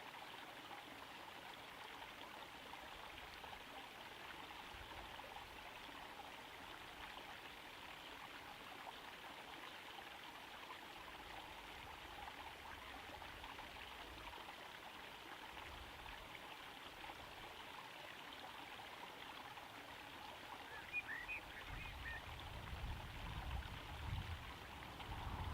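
Small garden pond waterfall trickling steadily into the pond. Near the end a few low rumbles come in, louder than the water.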